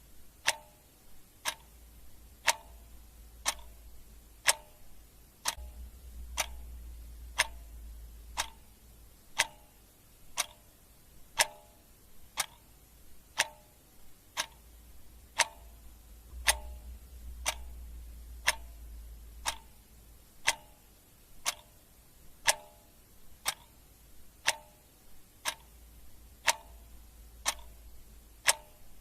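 Clock ticking steadily at about two ticks a second, in an alternating tick-tock where every other stroke has a short ring to it. A faint low rumble swells and fades underneath.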